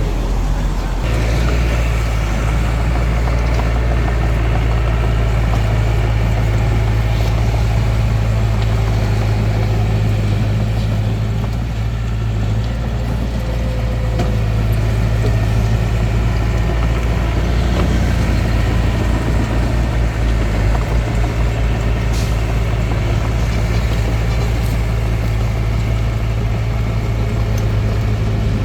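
Hitachi DX45M bulldozer's diesel engine running steadily, a deep even hum that grows louder about a second in and holds.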